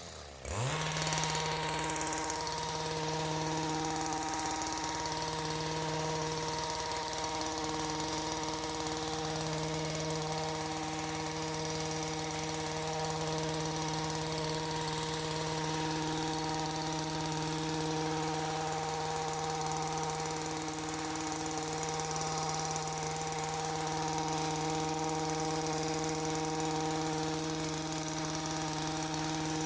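Small gas engine of a power tool falls from a high rev to idle right at the start, then idles steadily with a slight waver in its pitch.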